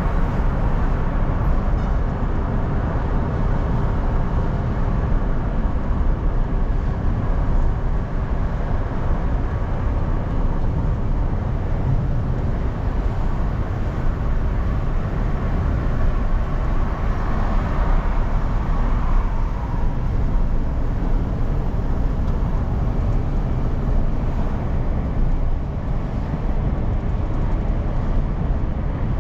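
Steady road and engine noise heard inside a moving car's cabin: a low rumble of tyres and engine, with a slight swell partway through.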